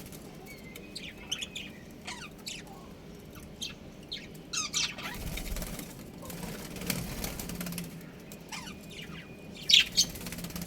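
Budgerigars chirping in short, scattered calls, with a louder pair of chirps near the end.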